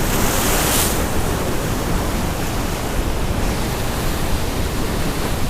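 Heavy storm surf crashing and rushing over jetty rocks in a steady loud roar of water, loudest in the first second, with wind buffeting the microphone.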